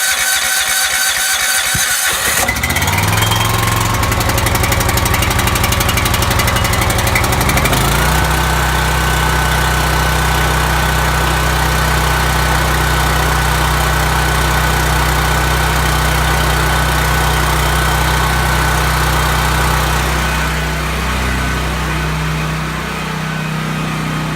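Portable generator's engine catching just after a choked start, then running; about eight seconds in its speed steps up to a higher steady pitch, which it holds, growing a little quieter and duller near the end.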